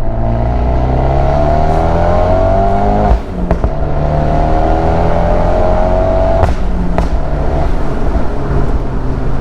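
Big-turbo Fiat 124 Spider Abarth's 1.4-litre turbocharged four-cylinder pulling hard through a Ragazzon exhaust. The revs climb in second gear from just over 3,000 rpm, break briefly at the shift about three seconds in, and climb again in third. About six and a half seconds in the throttle lifts and the revs drop, with a sharp crack shortly after.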